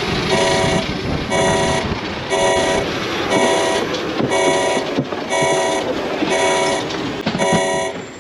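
An electronic alarm horn beeping in even half-second pulses, about once a second, over a steady background rush.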